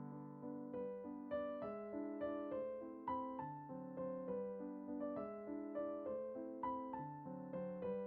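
Gentle solo piano music, single notes plucked out one after another in a slow melody, each ringing and fading.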